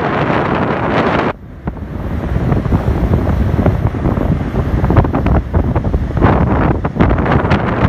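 Strong wind buffeting the microphone in gusts, a loud low rumbling noise that drops briefly about a second and a half in.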